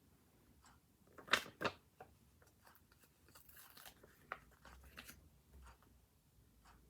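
Paper and stationery handled on a desk: two short, sharp sounds close together about a second and a half in, then light scattered ticks and rustles.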